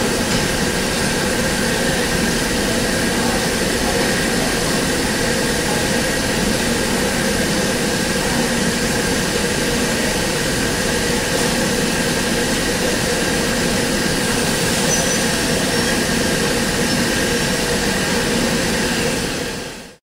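Steady drone of train machinery with a few constant whining tones over a rushing noise, holding level and then fading out in the last half second.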